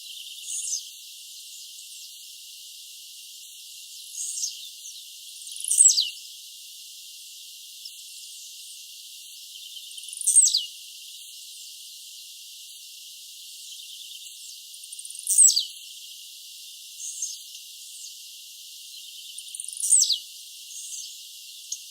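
Blue-black grassquit (tiziu) singing: four short, sharp notes that sweep steeply downward, one about every five seconds, with fainter short calls between them over a steady high hiss.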